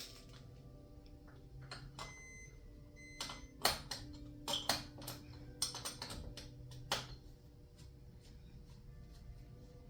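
A run of sharp metallic clicks and knocks, about half a dozen between three and seven seconds in, from hand tools working on a garage door's torsion spring hardware.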